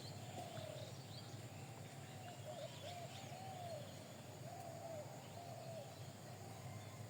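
Birds calling: a run of short, low, rising-and-falling notes, with faint high chirps above them.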